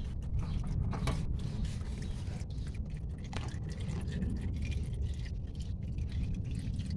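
Scrapes and clicks of an oil filter wrench working an oil filter loose, over a steady low rumble.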